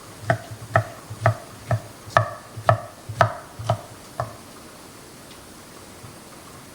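A kitchen utensil tapping against a dish about ten times, roughly twice a second, each tap giving a short ring. The taps stop a little past halfway.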